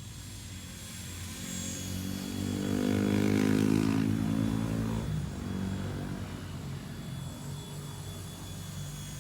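XK K124 brushless RC helicopter's rotors and electric motor whirring in flight, growing louder to a peak about three and a half seconds in, then fading, as it passes close.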